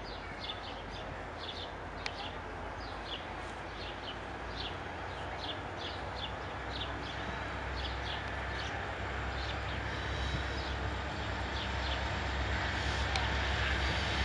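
Diesel freight locomotives approaching: a low engine rumble that grows steadily louder, with birds chirping throughout.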